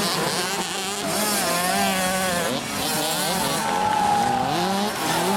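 Several 50 cc automatic two-stroke motocross bikes racing, their engines revving up and down in overlapping high-pitched whines.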